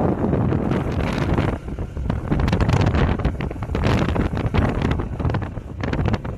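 Wind buffeting the microphone: a loud, irregular rumble with gusty bumps, dipping briefly about a second and a half in.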